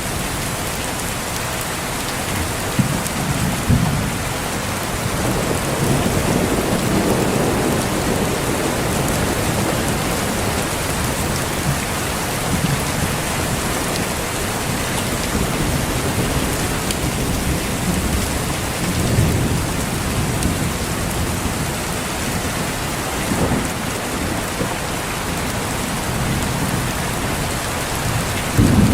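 Steady heavy rain falling, with thunder rumbling low in the background: sharp cracks a few seconds in and again near the end, and longer rolling rumbles.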